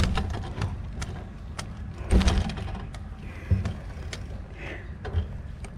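Clicks, rattles and knocks from a mountain bike being pushed uphill on foot, with heavier thumps at the start, about two seconds in and about three and a half seconds in. Wind rumbles on the microphone.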